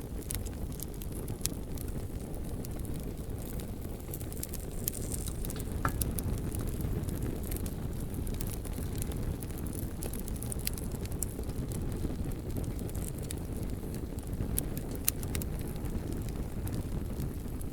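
Bonfire of burning wood: a steady low rumble of the flames, with scattered sharp crackles and pops from the logs and one louder pop about six seconds in.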